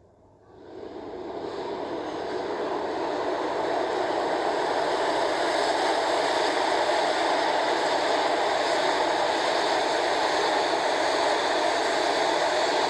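Subway express train running through the station without stopping: a steady rumbling rush that swells up over the first couple of seconds, then holds loud and even.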